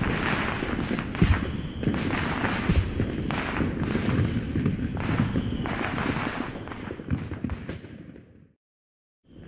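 Aerial firework shells bursting in rapid succession, a dense crackle with repeated bangs and one especially loud bang about a second in. The sound fades and cuts out to silence shortly before the end, then starts again.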